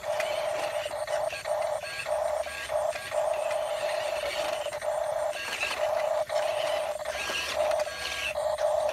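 Electric gear motor of a radio-controlled toy construction vehicle whining steadily, cutting out briefly several times as the controls are worked.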